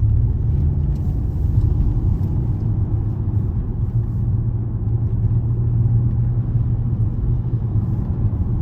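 Steady low rumble of engine and road noise inside a Range Rover's cabin while it drives along at a constant pace.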